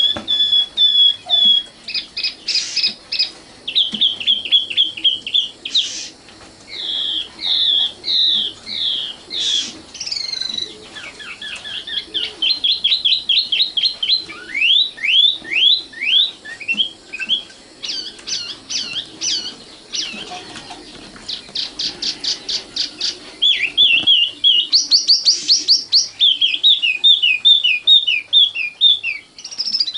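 Common nightingale singing, phrase after phrase: runs of repeated whistled notes, series of down-slurred notes and rapid note trains, with short pauses between phrases.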